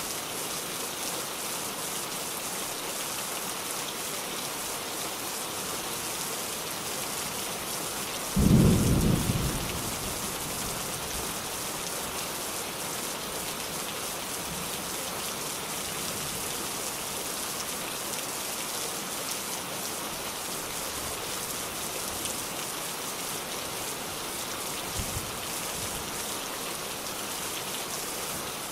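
Steady rain falling, with a sudden clap of thunder about eight seconds in that rolls off within a second or so, and a much fainter low rumble near the end.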